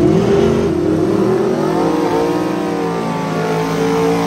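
Drag-racing truck's engine at wide-open throttle making a pass, its pitch climbing and then holding high.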